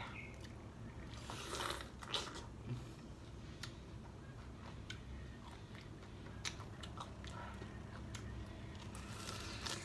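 Biting and chewing fresh pineapple flesh: irregular wet crunches and mouth clicks, with louder bites about one and a half and two seconds in and again near the end.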